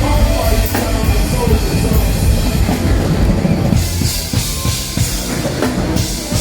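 A live band playing, with a full drum kit carrying the beat: bass drum, snare and cymbals well forward in loud, dense music.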